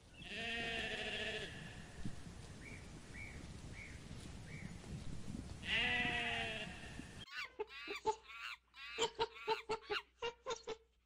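Sheep bleating: two long, quavering bleats, one at the start and one about six seconds in, over steady outdoor noise, with four faint short chirps between them. About seven seconds in the sound changes abruptly to a rapid run of short, high-pitched calls from Barbary macaques.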